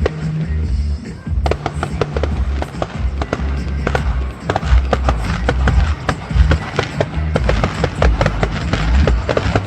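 Fireworks going off in many quick bangs and crackles over music with a heavy, pulsing bass line, which starts right at the beginning.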